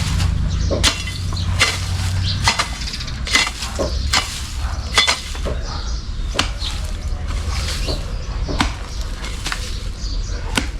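Irregular sharp knocks and clinks, about one or two a second, from hand work with a tool or utensil.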